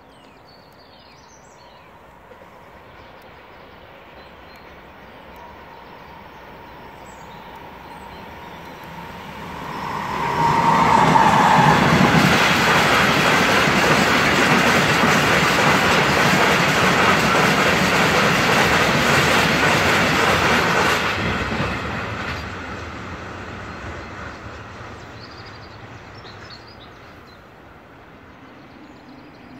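A freight train hauled by a Vossloh MaK G 1206 diesel locomotive, with a rake of covered hopper wagons, passing close by. It grows slowly louder as it approaches, a whine drops in pitch about ten seconds in as the locomotive goes past, and then the wagons' wheels run loudly past for about ten seconds before fading away.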